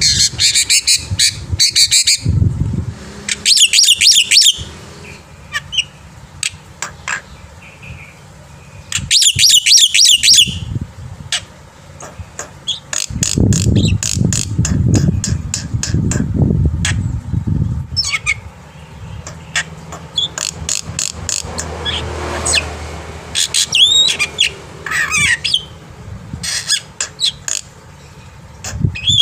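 Black-winged starling (jalak putih) singing: loud bursts of rapid, harsh chatter and squawks, broken by sharp clicks and a few whistled notes, with a low rumbling stretch around the middle.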